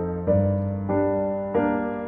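Background piano music: chords struck about every two-thirds of a second, each fading before the next.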